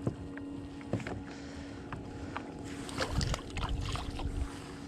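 Scattered small knocks and clicks of gear being handled on a fishing kayak, with a low rumble about three seconds in and a faint steady hum underneath.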